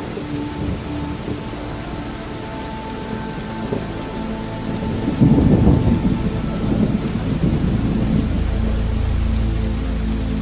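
Steady rain falling in a thunderstorm, with a rolling rumble of thunder swelling loudest about halfway through and a deep low rumble building again near the end.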